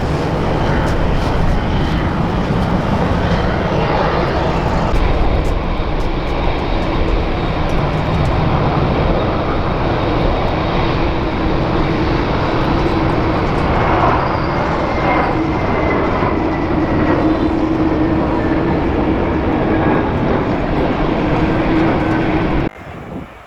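Jet airliner engines running loud and steady, with a high whine that slowly falls in pitch in the second half; the sound cuts off suddenly near the end.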